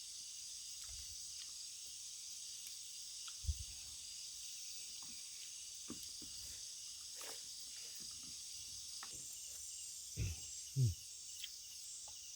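Steady high-pitched chorus of crickets and other insects. A few soft low thumps break in, one about a third of the way through and two close together near the end.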